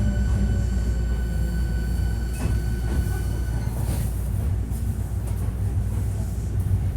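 Hankyu 1300 series electric train heard from inside a car as it slows for a station stop: a heavy low running rumble with a steady high electrical whine from the traction inverter and motors, which cuts out about halfway through, leaving the rumble and a few sharp clicks from the wheels and couplings.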